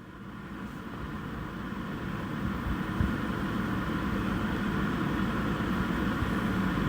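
Steady low rumble of vehicle traffic, fading in over the first few seconds.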